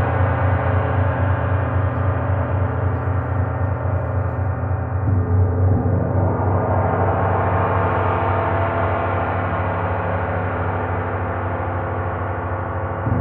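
Sound-bath instruments ringing in a deep, sustained wash of many overlapping tones with a slow pulsing hum underneath; a fresh stroke swells in about five seconds in.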